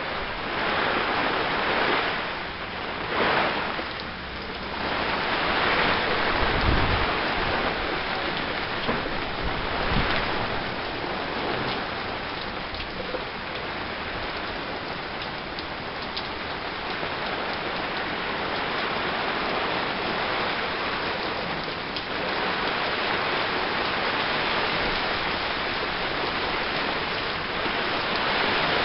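Heavy rain pouring down steadily in a storm, with a couple of brief low thuds about seven and ten seconds in.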